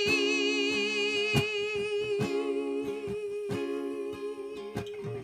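A woman singing one long held note with a slight vibrato over picked acoustic guitar chords, easing a little in loudness near the end.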